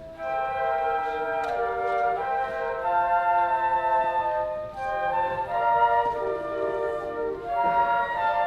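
Wind-instrument music with flutes to the fore, playing held, flowing melodic notes over several accompanying lines.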